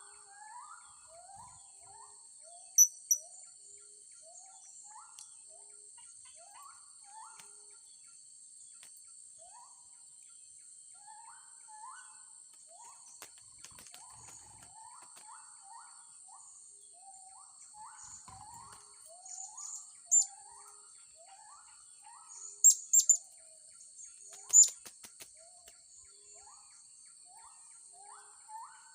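Blue-crowned hanging parrots (serindit) giving sharp, very high-pitched chirps in short bursts, loudest about three seconds in and again several times between twenty and twenty-five seconds. Underneath runs a steady high insect drone and a constant series of lower, rising chirping notes.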